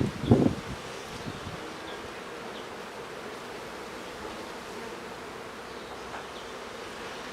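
Honeybees from an opened hive buzzing in a steady hum. A couple of brief knocks come within the first half second.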